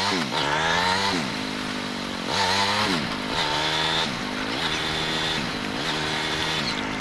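Motorcycle engine running under way, its pitch dipping sharply and climbing back four times, about every two seconds, as the throttle comes off and on again.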